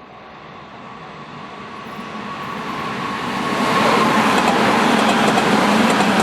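Electric train on the Hanshin Main Line approaching a level crossing, its running noise swelling over about four seconds and then staying loud as it passes, with a faint whine that slides slightly down in pitch.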